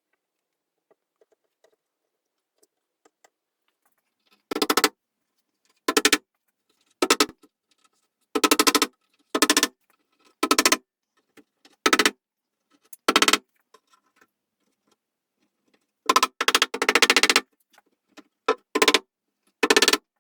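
A small hand-held power tool run in about a dozen short bursts with quiet gaps between them; one burst near the end runs longer.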